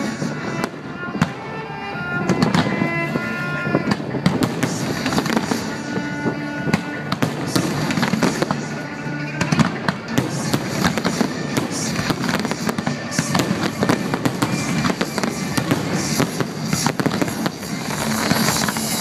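Fireworks bursting and crackling in a dense, continuous barrage, with music playing along.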